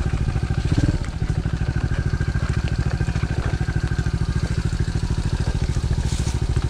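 DB14 110cc pit bike's single-cylinder four-stroke engine running steadily at low revs, with an even pulsing beat.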